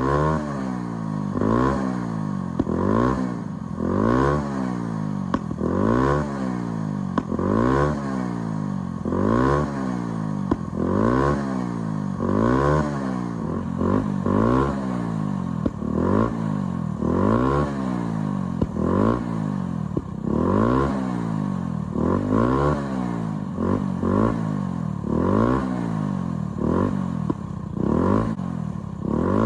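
2014 Honda Ruckus scooter's small four-stroke engine, running with an airbox delete and aftermarket ignition, revved up and falling back over and over, about every second and a half.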